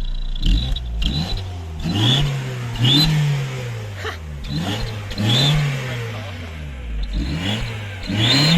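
Turbo diesel engine revved over and over in short blips, about one a second, with an eBay turbo whistle on the exhaust letting out a high whistle at the top of several revs.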